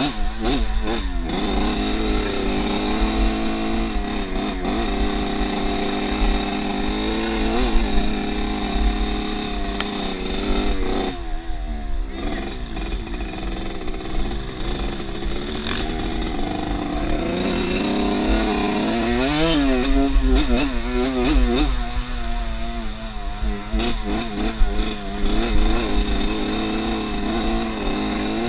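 Off-road motorcycle engine running as the bike is ridden, its pitch rising and falling with the throttle. It eases off briefly about eleven seconds in and revs up and down in quick swings around twenty seconds in.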